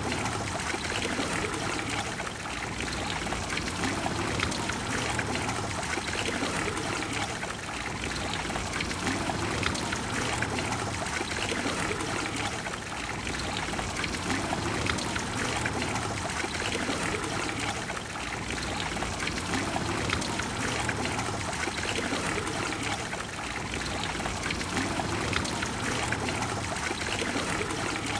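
Trevi Fountain's water falling and splashing into its basin, a steady rushing wash of water noise.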